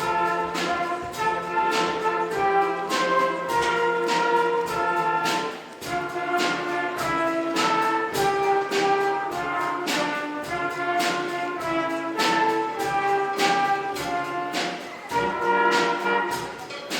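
Junior orchestra playing an upbeat piece, brass prominent, held notes moving over regular percussion hits.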